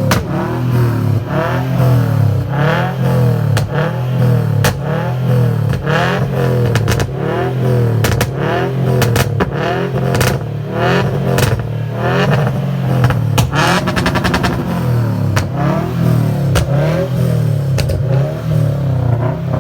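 A car engine revved again and again, its pitch sweeping up and falling back each time, with sharp exhaust pops crackling in between.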